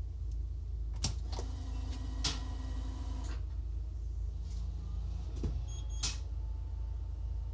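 Switch and relay clicks from a Hino hybrid bus's dashboard electrics as the main power is switched on, with a steady electronic tone for about two seconds after the first clicks and a few more clicks near the end, over a low steady hum.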